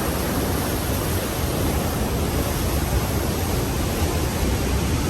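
Steady roar of the Rhine Falls: an even rushing of water, strongest in the low end.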